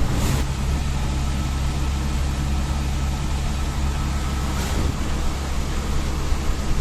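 Steady drone of a vehicle travelling on the road: a constant low engine hum under road and tyre noise, with two brief swishes, one just after the start and one just before five seconds in.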